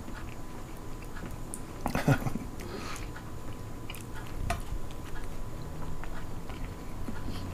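A man biting into and chewing a ghost pepper slider, with soft mouth and chewing noises and a brief vocal sound from him about two seconds in.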